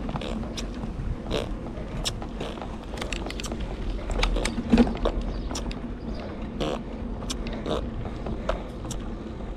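Bicycle being ridden: irregular clicks and rattles from the chain and gears over a steady low rumble.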